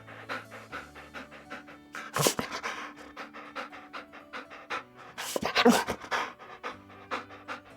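Dog panting in quick, repeated breaths, with a louder, sharper sound about two seconds in and again about five and a half seconds in.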